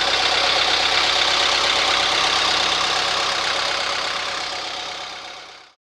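An engine idling steadily, fading out near the end.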